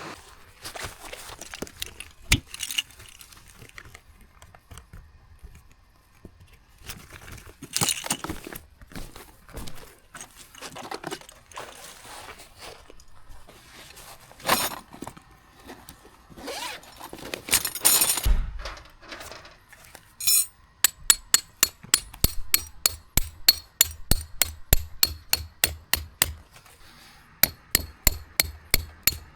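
Metal camping gear clinking and scraping as it is handled, then a hammer striking tent stakes in a steady run of blows, about two a second, with a short break near the end.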